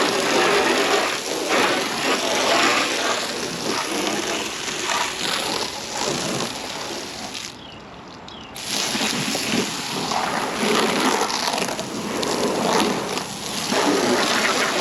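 Water spraying onto a car's bodywork, rinsing off soap; the spray cuts out for about a second roughly halfway through, then starts again.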